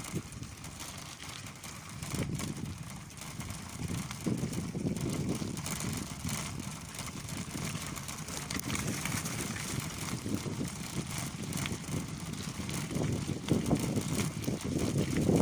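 Bicycle in motion, with wind buffeting the microphone in uneven low rumbling swells and small rattles and crackles from the bike.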